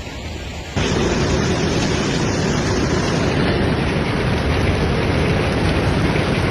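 Heavy rain pouring in a storm: a loud, steady hiss with a low rumble underneath, cutting in abruptly about a second in.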